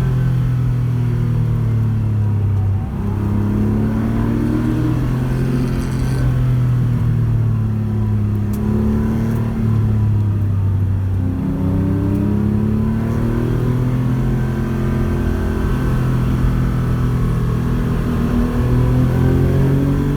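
Porsche 911 rally car's flat-six engine under way, its note rising and falling again and again as it accelerates and backs off, with brief breaks in the note between pulls.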